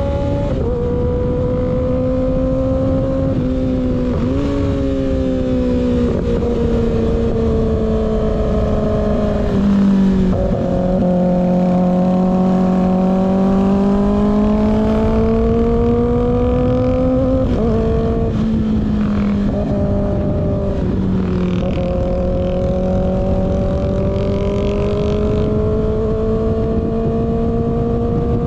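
Kawasaki ZX6R inline-four engine under way through an unbaffled slip-on exhaust, with steady wind rush. The engine pitch climbs slowly through each gear and drops sharply at several shifts, with a longer low-revving stretch near the middle.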